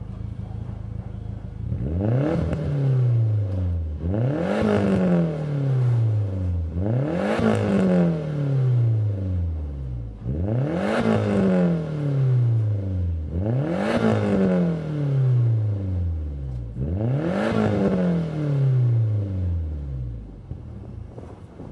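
Nissan SR20DET turbocharged 2.0-litre four-cylinder engine idling, then revved six times in free rev, each blip rising sharply and falling back slowly to idle.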